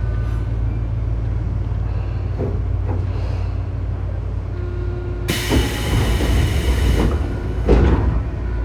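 Tobu 9000 series electric train car with armature chopper control, heard from inside above the chopper: a steady low rumble with faint whining tones. About five seconds in, a loud hiss starts suddenly and lasts under two seconds, followed by a sharp burst shortly after.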